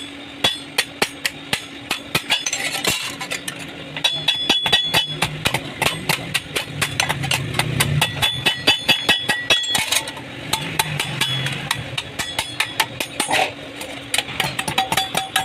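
Hammer blows on sheet metal, struck in quick repeated runs, several strikes a second, with metallic ringing. A low engine-like hum runs under the hammering through the middle.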